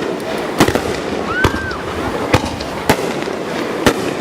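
Fireworks exploding overhead: about six sharp bangs at uneven intervals, over a steady rumbling background.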